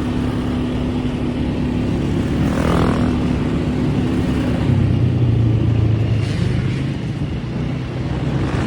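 Engine of an off-road vehicle running steadily under way on a dirt track, its note dropping to a lower pitch about five seconds in.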